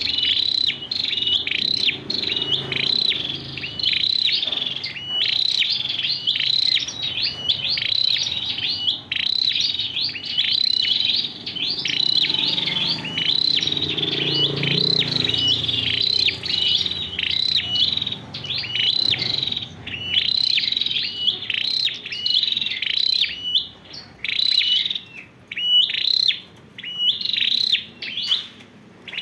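Scarlet-backed flowerpecker singing a cricket-like song: rapid high chirps strung into quick repeated phrases, with more short pauses between phrases near the end.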